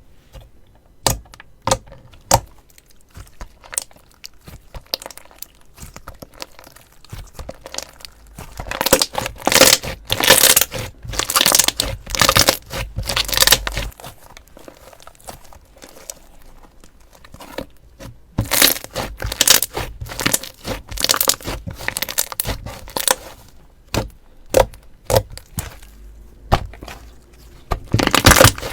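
Slime being squeezed and worked, giving dense crackling and popping in bursts, loudest about a third of the way in and again about two-thirds in, with sparser clicks between.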